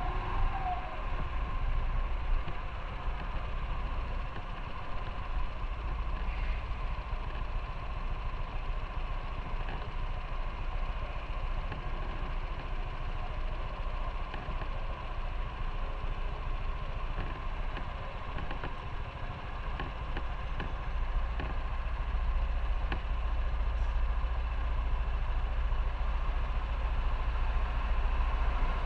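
Motorcycle engine running steadily under wind and road noise, a low rumble that grows a little louder about two-thirds of the way in.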